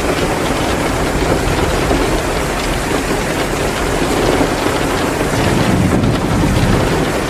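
Heavy rain pouring steadily, an even dense hiss, with the small crackles of a wood fire in a fireplace mixed in.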